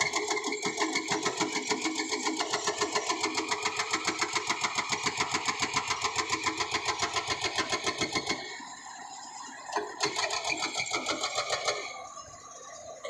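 Hydraulic rock breaker on a CAT excavator hammering rock in a fast, even rhythm of about seven blows a second. It stops about eight seconds in, then hammers again for about two seconds near the end.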